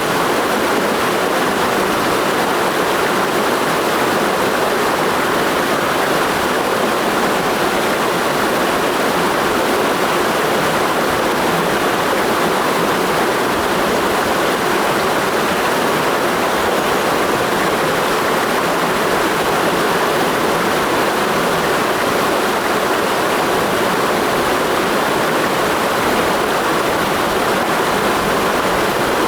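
A clear mountain stream flowing, a steady, unbroken rush of water.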